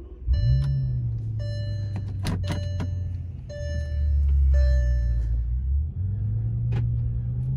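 Bentley Continental Supersports' twin-turbo W12 engine starting: it catches about a third of a second in and settles into a steady idle. A cabin warning chime beeps about five times in the first few seconds.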